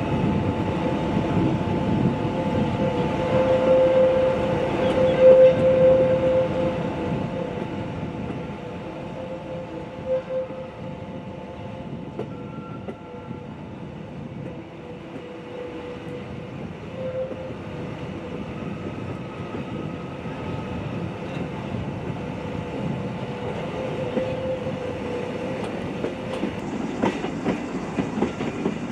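Metre-gauge electric train running on its line, heard from aboard: a continuous rumble of wheels on rail under a steady whine, loudest in the first six seconds and then easing. A run of sharp clicks comes near the end.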